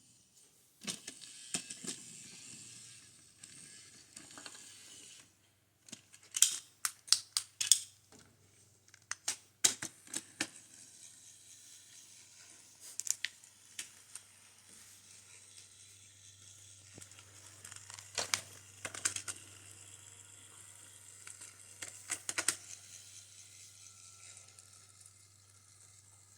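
Wooden toy train track pieces being handled and fitted together: scattered sharp clicks and knocks in short clusters with pauses between.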